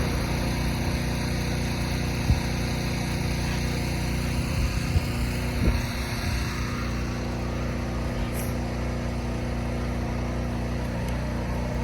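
An engine running steadily at idle, with a couple of brief knocks in the first half.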